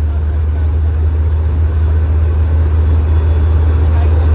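Diesel locomotive engine running close by: a loud, deep, steady hum that grows slowly louder.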